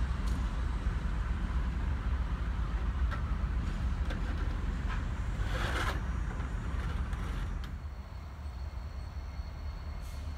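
A train rumbling steadily, with a short burst of hiss a little past halfway. The rumble eases about three quarters of the way through.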